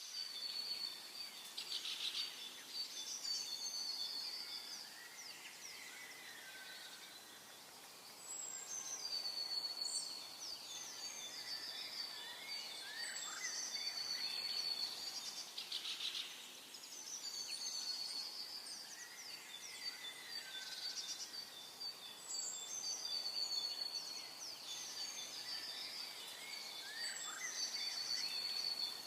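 Several songbirds singing and chirping, with whistled phrases and trills repeating over a thin, steady high tone.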